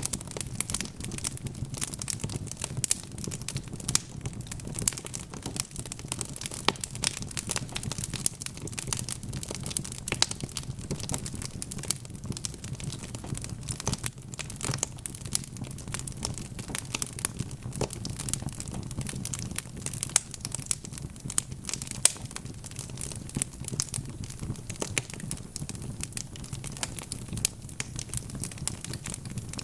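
Wood logs burning in a fireplace, crackling with dense, irregular quick pops and snaps over a steady low rumble.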